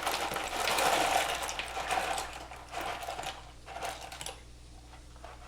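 Dry rigatoni pasta rattling as it is shaken out of its box in several pours, loudest in the first two seconds, then in shorter bursts that die away.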